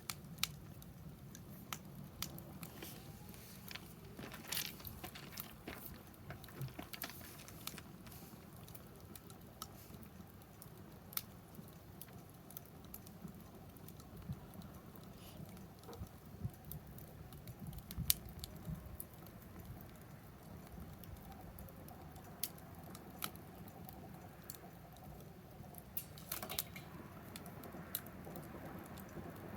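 Wood fire crackling in a fire-pit stand: irregular snaps and pops, with denser flurries of crackling now and then.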